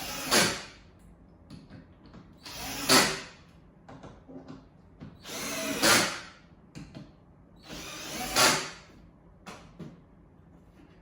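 Power drill-driver driving four screws into the countersunk holes of a board, in four short runs about two and a half seconds apart, each growing louder toward its end.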